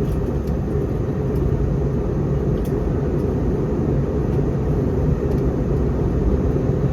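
Steady cabin noise inside an Airbus A321neo airliner: an even, deep rumble of the engines and rushing air.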